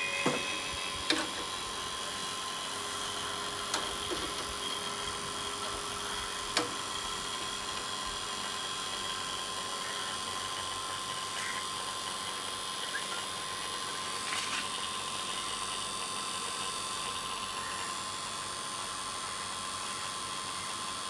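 A small motor running steadily with a constant whine, with a few sharp clicks in the first seven seconds.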